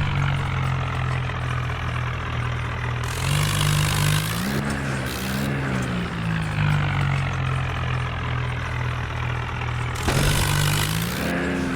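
Tractor engine running steadily, its pitch rising and falling briefly about four seconds in and again near the end, with spells of hissing noise over it.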